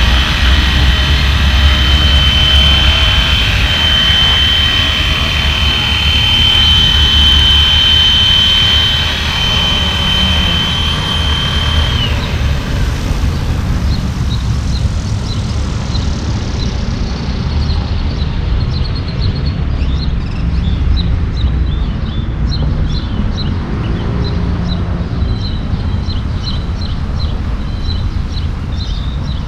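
Flywing FW450 V3 electric RC helicopter in flight, its motor and rotors giving a steady high whine over a heavy rumble of wind on the microphone. The whine cuts off about twelve seconds in, leaving the wind rumble and faint high chirps.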